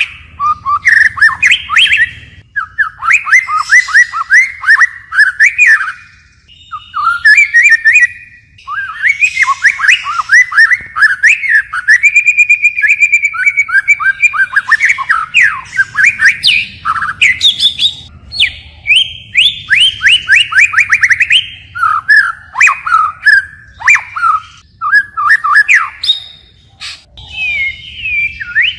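White-rumped shama singing a long, varied song: fast runs of sharp whistled notes and trills, switching from one phrase to the next with only short pauses.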